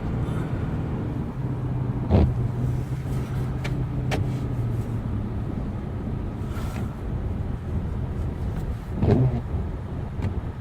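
Inside a car driving on a snowy highway: steady engine and road hum. Two sharp thumps, about two seconds in and near the end.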